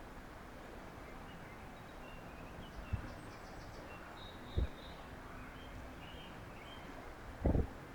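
Scattered faint, short bird chirps and a brief high trill over a steady outdoor background hiss. Three dull low thumps break in, about three seconds in, just before five seconds, and the loudest near the end.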